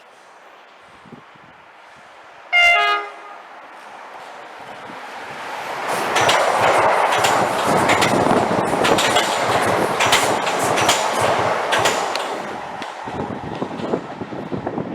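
A train sounds a short horn blast, then passes, its wheels clattering over the rail joints. The passing noise builds, holds loud for several seconds and fades near the end.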